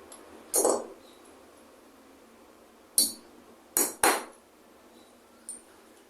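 A few sharp knocks and clatters of hard objects: one about half a second in, one at three seconds, a quick pair just before four seconds, and a light tick near the end.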